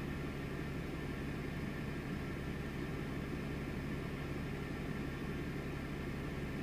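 Truck engine running steadily at low speed: an even low hum with a few fixed tones that do not rise or fall.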